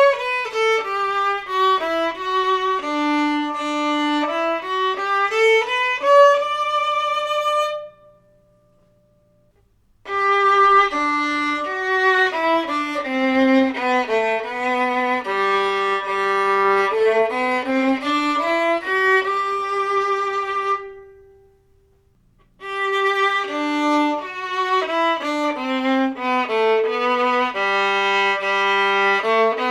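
Newly made violin played solo with the bow: three phrases of stepwise notes running down to the low G string and back up, with two brief silent pauses between them.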